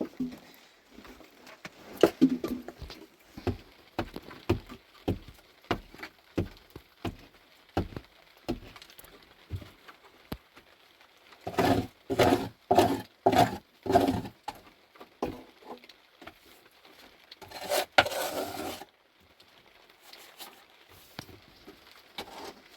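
Irregular series of sharp knocks and taps, roughly two a second, then a run of about six louder, heavier blows in the middle. A brief noisy rush follows near the end.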